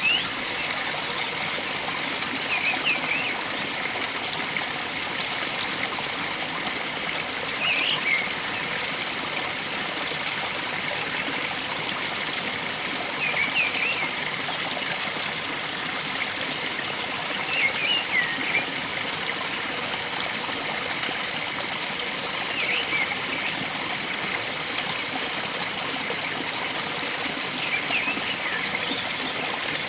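Steady rush of flowing water, with a bird giving short chirping calls about every five seconds.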